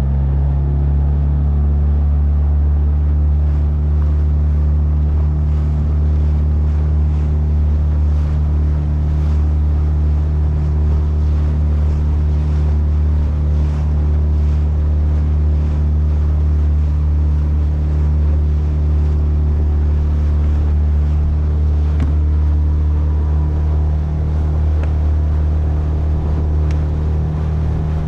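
Small boat's outboard motor running steadily near full throttle, just after being opened up from idle. The engine drone is steady, with water and wind noise under it.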